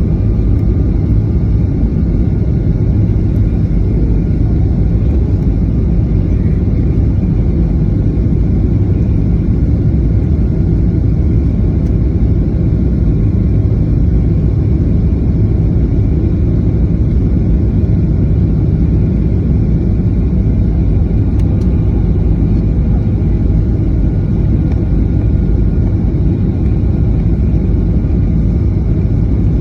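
Steady rumble inside the cabin of a Boeing 737, from its engines and airframe, with faint steady engine tones above the rumble.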